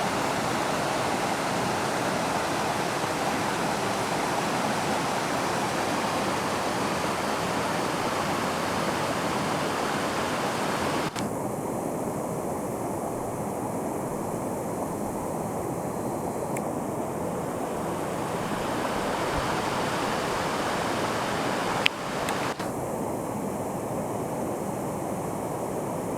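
River in flood after a storm, its water rushing steadily. The sound changes abruptly about eleven seconds in and again near the end, with a sharp click just before the second change.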